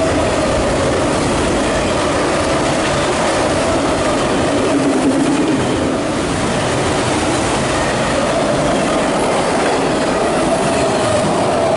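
Freight train of autorack cars rolling past at speed: steady, loud wheel-and-rail noise with a sustained high ringing squeal from the wheels.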